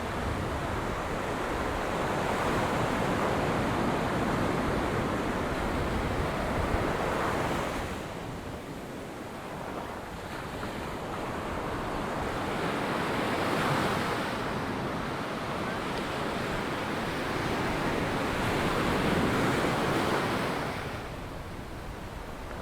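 Ocean surf breaking and washing up a sand beach, the rush of the waves swelling and ebbing in slow surges every several seconds.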